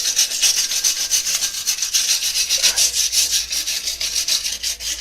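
Wire brush scrubbed back and forth in quick continuous strokes over the rusty metal of a motorcycle exhaust collector box, cleaning the rotten, holed section before it is patched.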